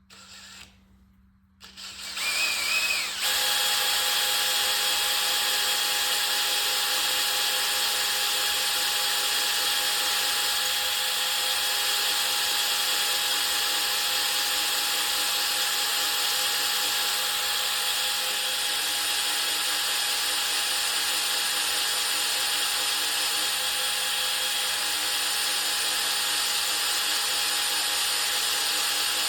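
Electric drill spinning up about two seconds in and then running steadily, boring an oiled bit through a guide jig into the aluminium Teksid engine block for an 8 mm timing guide pivot pin.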